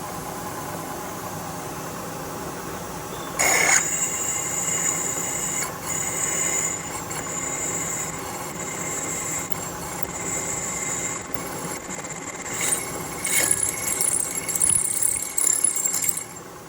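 Milling machine spindle running, then a drill bit cutting into an aluminum steering-wheel hub from about three and a half seconds in, with a high squeal and chatter that come and go until near the end.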